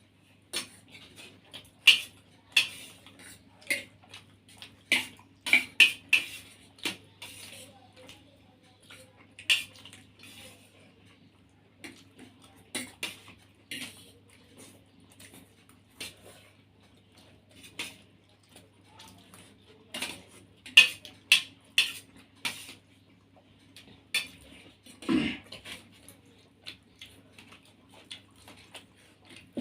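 Spoons or forks clinking and scraping against plates as food is eaten, in irregular scattered clicks, with a duller, deeper knock late on. A steady low hum runs underneath.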